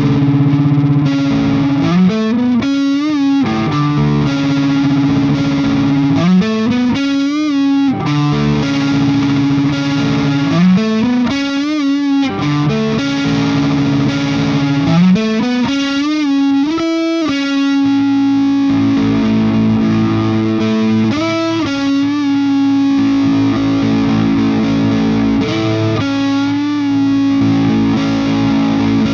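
Overdriven electric guitar from a 1999 Gibson Les Paul Classic with Righteous Sound Gold Tooth humbuckers, played through a Friedman Small Box 50 amp. It plays ringing chords with a repeated upward string bend about every four seconds in the first half, then settles into sustained chords.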